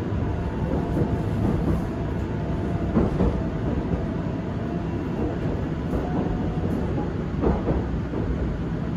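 Seoul Subway 7000-series train running, heard inside the car: a steady rumble with faint steady whining tones and two sharp knocks from the wheels over the rails, about three seconds in and near the end.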